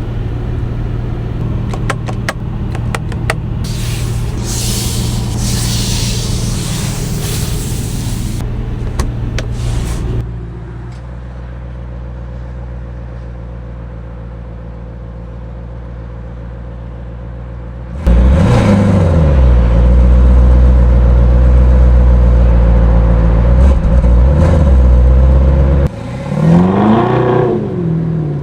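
Aston Martin DBX S's twin-turbo V8 engine running, quieter and steady for a while, then jumping much louder about two-thirds of the way through with a quick rise and fall in pitch. It holds a loud, steady note and ends with one more rev climbing and falling. A hiss sits over the engine in the first few seconds.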